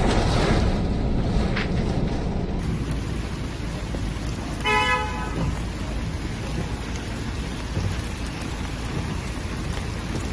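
Heavy storm rain and gusting wind, a steady noise that eases somewhat over the first few seconds. A car horn toots once, briefly, about halfway through.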